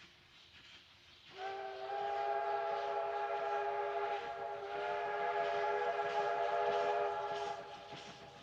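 Steam locomotive whistle, most likely Z19 class 1919's, sounding one long blast of several notes at once. It starts about a second in, holds for about six seconds, then fades near the end.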